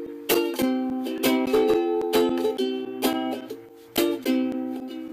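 Ukulele strumming chords in a small room, each chord ringing on, the last one fading near the end.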